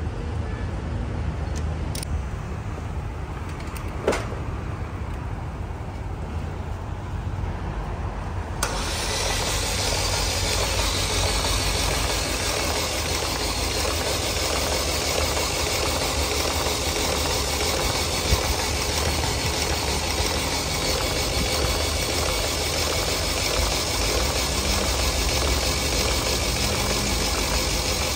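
A machine running steadily with a low hum, a couple of sharp clicks in the first few seconds, and a louder, hissier steady noise that comes in abruptly about nine seconds in.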